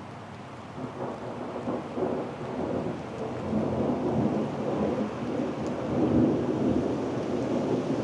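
Thunder rumbling from a severe thunderstorm, starting low and swelling from about a second in to its loudest near the end.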